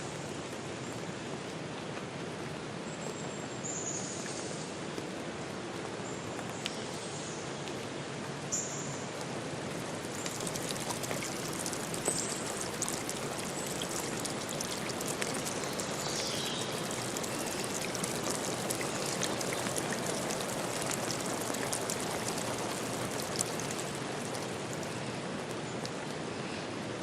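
Steady water noise across the whole range, with fine pattering clicks that thicken after about ten seconds. A few short high chirps sound over it.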